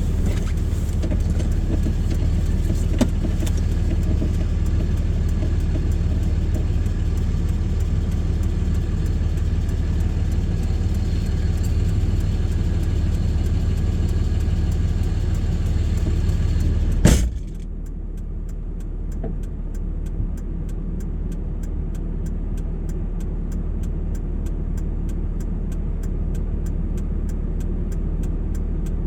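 Steady vehicle engine and road noise heard from inside the car. About 17 seconds in there is one loud clunk, after which it is quieter: a low engine hum with a fast, even, faint ticking.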